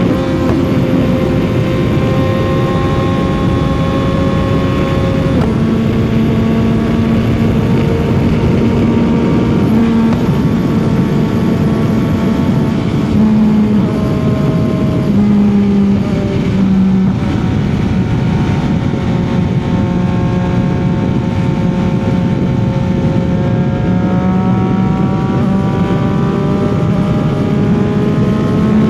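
CFMOTO 675's inline three-cylinder engine and exhaust running at steady highway cruising speed under a rush of wind and road noise. The engine pitch drops slightly about five seconds in, wavers briefly in the middle, and rises gently near the end as the throttle is rolled on.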